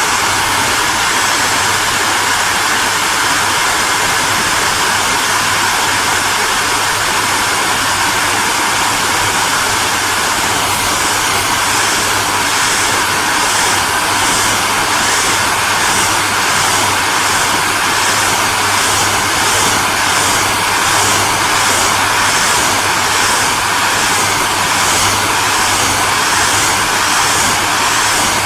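Electric hair dryer running steadily: a continuous blowing hiss over a low motor hum. From about ten seconds in, a regular pulsing comes into the high hiss, about one and a half beats a second.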